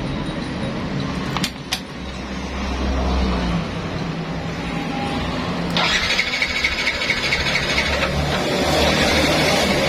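Yamaha Nmax scooter's electric starter cranking the engine, which turns over but does not start. There are two sharp clicks about a second and a half in, and the cranking grows louder about six seconds in.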